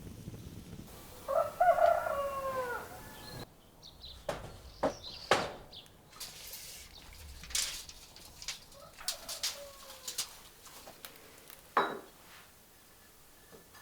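A rooster crows once, about a second in, a loud call falling in pitch at its end, followed by scattered knocks and clatters.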